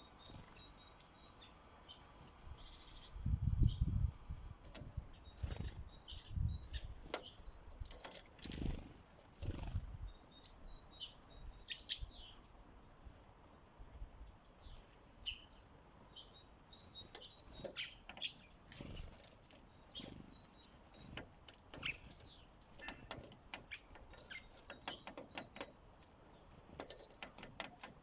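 Sparrows at a feeder: scattered short chirps and many sharp tapping clicks of pecking. Several low thumps fall in the first ten seconds, loudest about three and a half seconds in.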